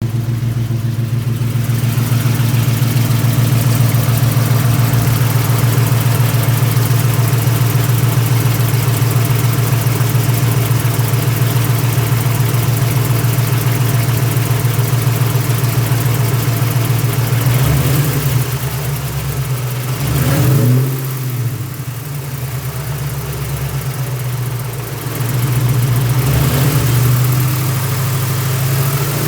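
A 1999 Mustang GT's built 4.6-litre four-valve V8 with long-tube headers and X-pipe idling with a steady, even pulse, carrying a rattle or clicking that the owner suspects may be the twin-disc clutch or something worse. Partway through, the engine note shifts up and down and drops in level for several seconds, then settles back to idle.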